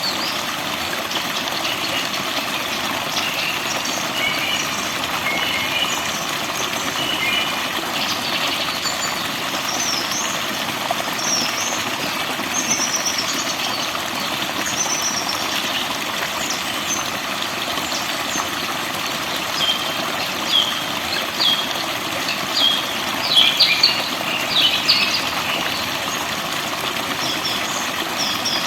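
Forest birds singing and chirping over a steady rush of running water. Short whistles and chirps come and go throughout, and a run of sharp, quick calls about two-thirds of the way through is the loudest part.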